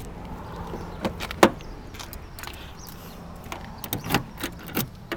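Car door being shut and its locks working: a sharp thud about one and a half seconds in, then a run of smaller clicks and knocks near the end, over a low steady hum.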